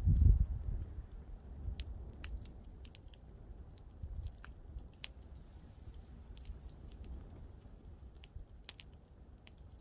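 Campfire crackling: scattered sharp pops and snaps of burning wood over a low rumble, which is loudest in the first half second and then settles.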